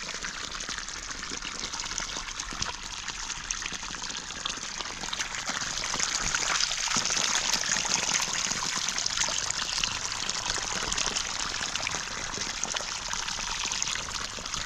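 Steady rush of running water, growing a little louder about six seconds in.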